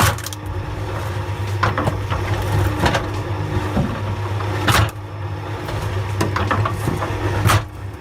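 A firewood-processing machine running with a steady low motor hum, and sharp knocks of wood being cut or split several times. The loudest knocks come about five seconds in and again near the end.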